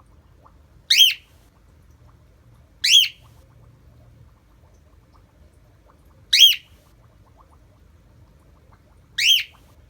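A cockatiel giving its shrill flock call four times, a few seconds apart, each call a short piercing note that sweeps up and falls back. It is the loud contact call a lone pet cockatiel repeats while calling for a companion.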